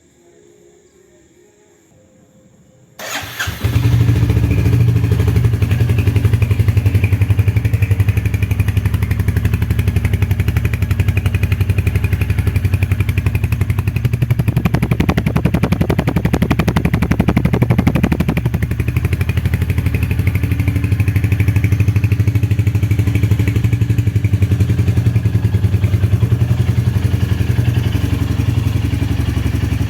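Royal Enfield Hunter 350's single-cylinder engine starting about three seconds in, catching at once and then idling with a steady, even beat. Its note thickens briefly around the middle.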